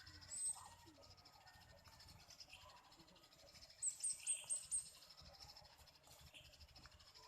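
Sparrows chirping: one short high chirp near the start, then a quick run of about five chirps about four seconds in, over a faint steady twittering.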